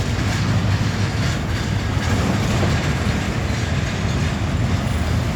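Freight train cars rolling past at speed: a steady, loud rumble with the clickety-clack of wheels over the rail joints.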